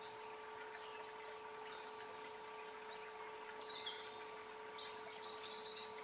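Small birds calling in woodland: a few faint high chirps, then a louder short call about four seconds in and a longer, slightly falling call about five seconds in, over a steady low hum.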